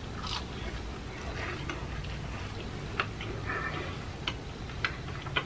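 Close-miked chewing of crunchy fried food, with wet mouth sounds and a few sharp crunching clicks in the second half, over a steady low hum.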